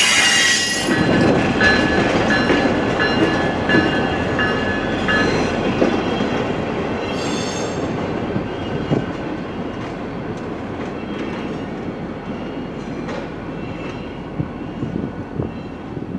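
The last cars of a diesel-hauled work train roll past and recede, their wheels clattering on the rails. A thin wheel squeal runs for the first several seconds. The rumble then fades steadily as the train moves away, with a few sharp knocks near the end.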